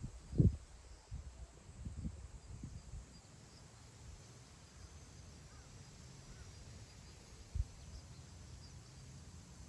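Wind gusting across open grassland and buffeting the microphone in low rumbles, heaviest in the first three seconds with a sharp buffet about half a second in and another near the end, easing between them to a soft steady rush. A faint high, steady chirping sits underneath.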